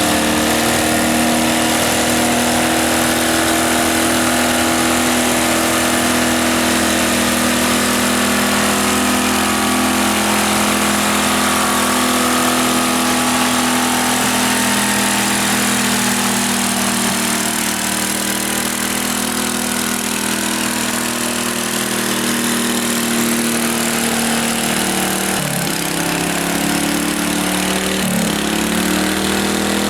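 Lawn tractor's single engine running steadily at high revs, its pitch dipping briefly twice near the end.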